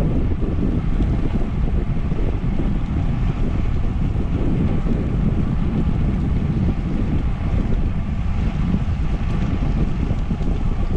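Wind buffeting the microphone of a camera riding on a moving bicycle: a steady, deep rumble of wind noise.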